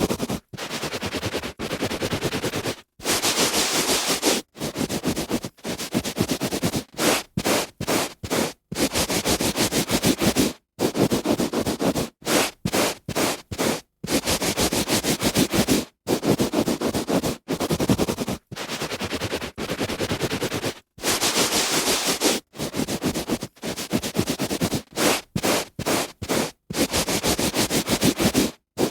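A hand rubbing back and forth on carpet, a dry scratchy brushing in strokes of uneven length broken by short silent pauses.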